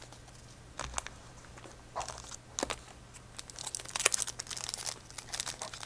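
A Yu-Gi-Oh booster pack's foil wrapper being handled and torn open: scattered crinkles and crackles, thickest in the second half.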